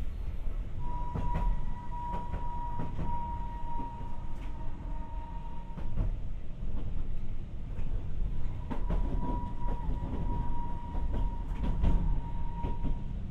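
Tokyu Setagaya Line 300 series light-rail car running, heard from inside the car: a steady low rumble from the wheels and motored bogie with scattered clicks over the rail joints. A steady high tone comes in about a second in and fades near six seconds, then returns from about eight and a half seconds until near the end.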